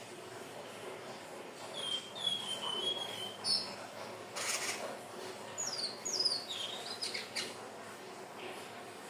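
Indigo flycatcher (sikatan ninon) singing high, thin whistled notes. A drawn-out, slightly falling whistle about two seconds in is followed by a few quick notes sliding downward a little past the middle.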